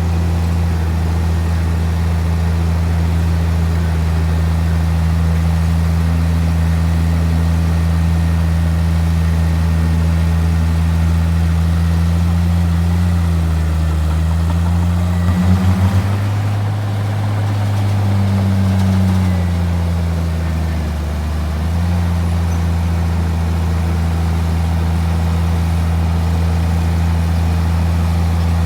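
Bulldozer's diesel engine running steadily with a deep hum, its pitch rising and falling back for a few seconds around the middle.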